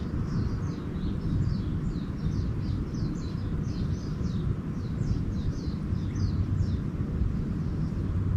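Small birds twittering: a quick run of short, high, falling chirps, a few a second, which stops about seven seconds in. Underneath is a steady low rumble.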